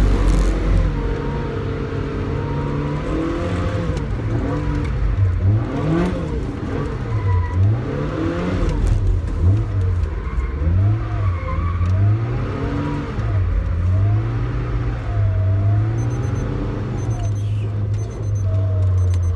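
Toyota AE86 Sprinter Trueno's four-cylinder engine heard from inside the cabin, its revs rising and falling over and over as the car is thrown through tight figure-eight turns in drift practice.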